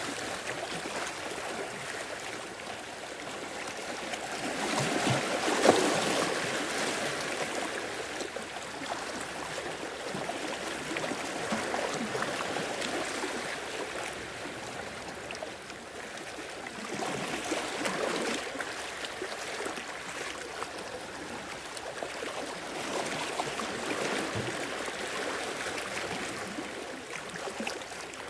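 Small sea waves washing in and draining back, the rush of water swelling and easing about every six seconds, loudest about five seconds in.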